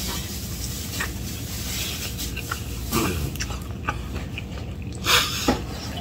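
A person biting and chewing pieces of roast duck eaten by hand, with scattered small clicks over a steady low hum. A brief louder rasping sound comes about five seconds in.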